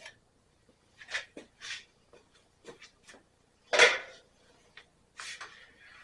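Scattered clicks and knocks of parts and tools being handled on a workbench, with one louder clunk about four seconds in and a scraping rub near the end.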